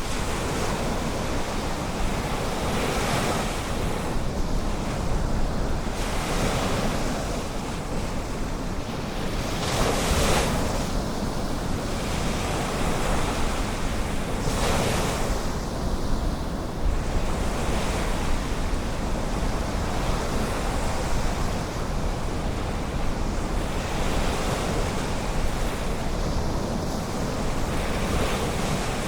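Ocean surf: a continuous wash of waves with a wave breaking every few seconds, the biggest surges about a third and halfway through. Wind rumbles on the microphone underneath.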